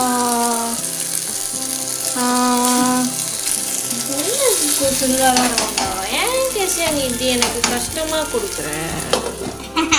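Tomato-and-spice masala sizzling in oil in a frying pan, a steady hiss, with music and, in the second half, a voice rising and falling over it.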